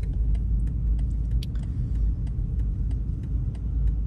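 Steady low rumble of a car on the move: engine and road noise, with faint scattered ticks over it.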